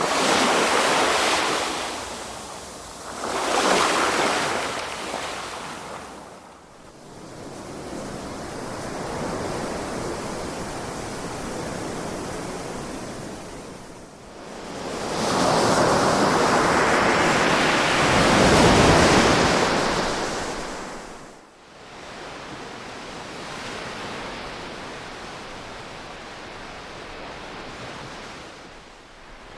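Ocean waves breaking and washing on a shore: two short surges in the first few seconds, a softer wash, then a longer, louder surge about halfway through lasting several seconds, settling back to a quieter wash.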